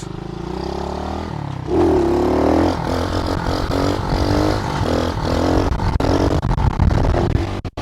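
SSR110 pit bike's small single-cylinder four-stroke engine revving as the bike is ridden, picking up speed with a rise in pitch about two seconds in.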